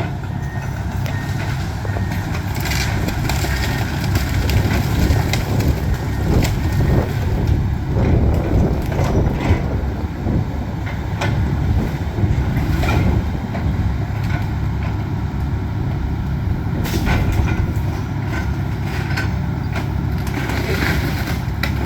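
Diesel excavator engine running steadily under load while it tears down a house, with irregular knocks and cracks of breaking building material.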